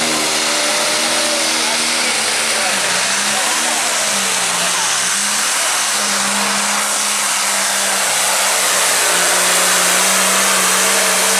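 Turbocharged diesel engine of a limited pro stock pulling tractor running hard and loud, its pitch dipping a few seconds in and then holding steady.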